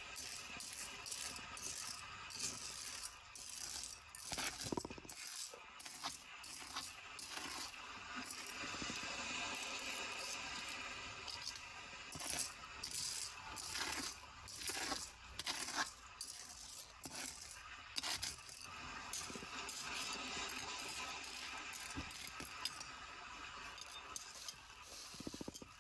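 Small hard objects rattling, clinking and scraping as they are handled, with many short irregular knocks.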